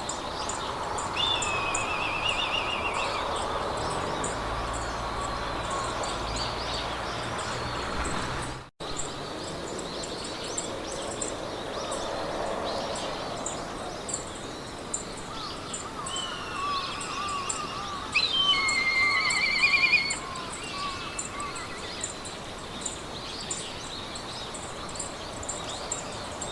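Meadow ambience: several songbirds singing trilled and warbled phrases, the loudest a high two-part trill near the end, over a steady hiss of wind in grass. A fast, even, high-pitched ticking runs underneath, and the sound cuts out for an instant just before nine seconds in.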